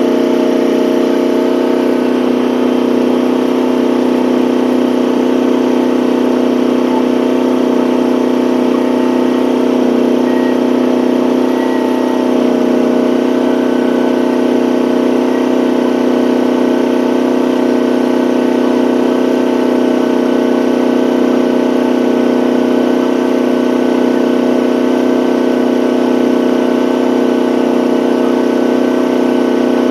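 Gasoline engine of a one-ton mini excavator running steadily at a constant speed, as it powers the hydraulic auger attachment.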